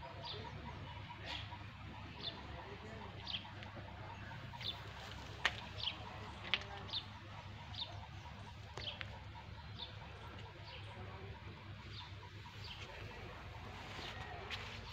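Birds chirping: short high chirps, each dipping in pitch, repeated about every half second to a second. A couple of sharp clicks sound near the middle.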